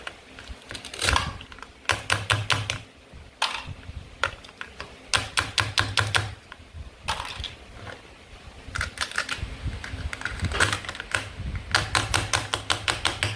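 Toy knife cutting through play fruit and vegetables: short runs of fast clicking, each about a second long, repeated several times.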